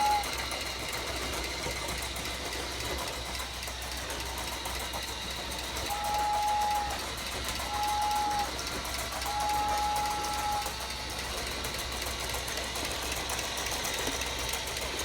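Toy train's small motor running steadily with a light whir and clicking on its track. Its whistle sounds three times a few seconds apart near the middle, each a flat steady tone, the last one the longest.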